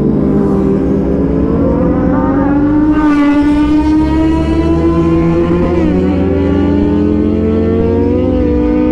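Kawasaki Z900's inline-four engine pulling under acceleration while riding, its pitch rising slowly and steadily.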